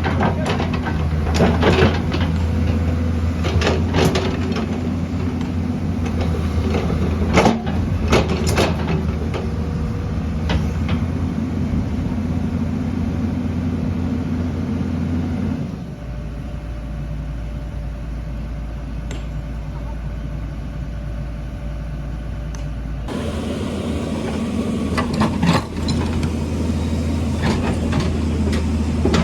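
Diesel engine of heavy earthmoving equipment running steadily, with scattered metallic clanks and knocks. The engine sound changes abruptly twice, once about halfway through and again later.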